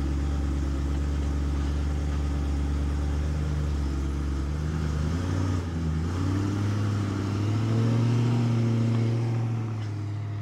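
BMW E92 M3's 4.0-litre V8 idling high after a cold start. Its note shifts about halfway through, rises a little, then falls and quietens near the end.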